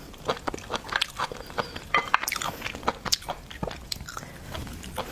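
Close-miked eating of shellfish: irregular sharp clicks and crunches of shell with wet chewing.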